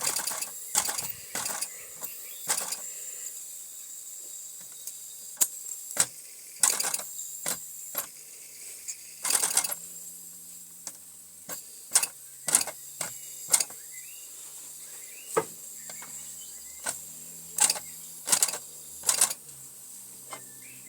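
Mamod SW1 toy steam wagon running in slow gear: a steady steam hiss with irregular clicks and knocks from its gears, which are a bit dodgy.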